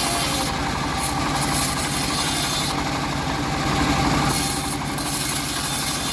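Homemade band sawmill running steadily, its engine drone constant, with a high hiss that comes and goes several times.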